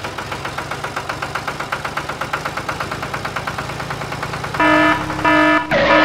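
Tractor engine sound chugging steadily at a rapid, even beat, about nine or ten pulses a second. Near the end it is cut across by two loud, evenly pitched horn-like warning beeps and a third, harsher blast.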